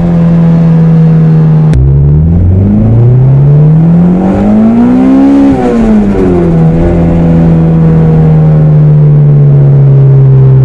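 Turbocharged Honda B18B inline-four engine heard from inside the cabin. It runs steadily at first, then after an abrupt break it accelerates, its pitch rising for about three seconds. The pitch drops as the throttle comes off, and the engine settles into a steady drone that sinks slowly in pitch.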